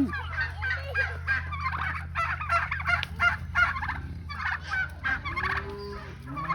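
Domestic turkeys gobbling over and over, a rapid run of short warbling calls, with a steady low hum underneath.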